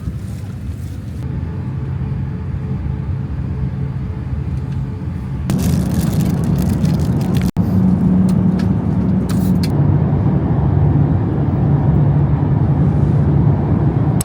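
Steady low vehicle rumble that grows louder about five and a half seconds in, with a brief sharp break about halfway through.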